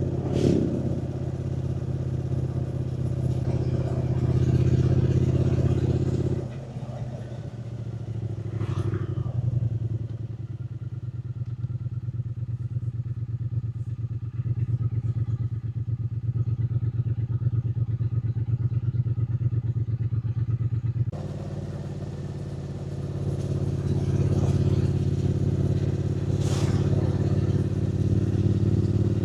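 Triumph Speed Twin 900's parallel-twin engine running under way. A few seconds in the note drops to a lower, pulsing beat for about fifteen seconds, then picks back up to the fuller, steady note for the rest.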